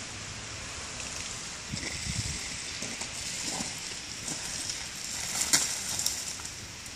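Steady patter of water falling on an ice-covered street and branches, with a few soft thuds about two and three and a half seconds in. Several sharp clicks come in the last second and a half, the loudest about five and a half seconds in.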